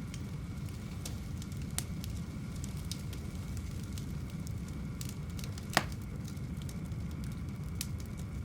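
Fire crackling in a fireplace: a steady low rumble of flames with scattered sharp pops, the loudest one about six seconds in.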